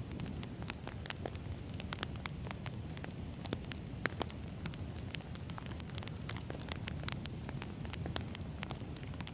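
Wood fire burning, with a steady low rumble and many sharp, irregular crackles and pops of burning firewood.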